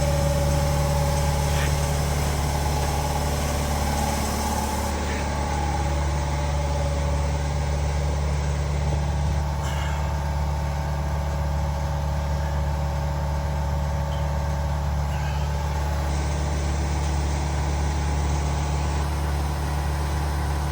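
Steady, unchanging low mechanical hum, like an engine idling, with a couple of faint clicks.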